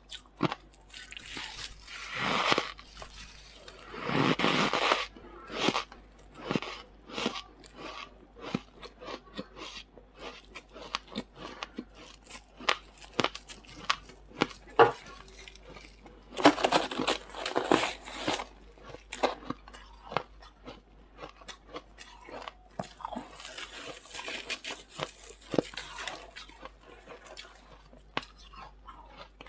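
Close-up chewing of squeaky freezer frost: many sharp little crunches, with several longer, louder bursts of crunching as fresh mouthfuls are bitten.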